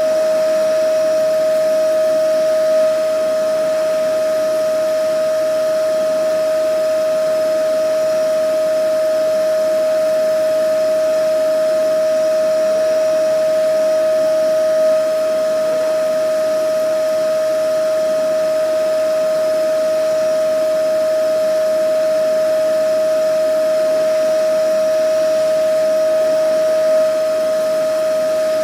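Vacuum cleaner running steadily: a constant motor whine over an even rushing noise, with a slight swell in level three times, about twelve seconds apart.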